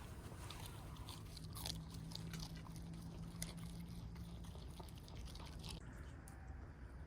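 Close-up eating sounds: chewing and biting, with many short wet clicks that thin out about six seconds in.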